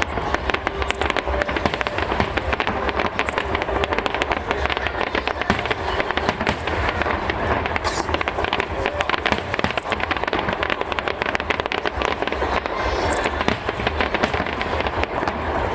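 Fireworks shells bursting in rapid succession: a dense, continuous run of bangs and crackles with no break.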